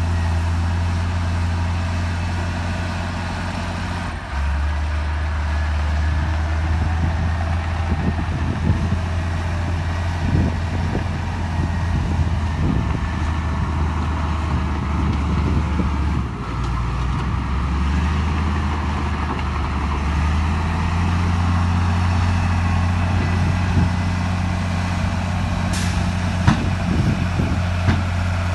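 Heavy diesel earthmoving machinery running under work. The engine's pitch drops about four seconds in and comes back up around twenty seconds, with scattered metallic clanks and rattles.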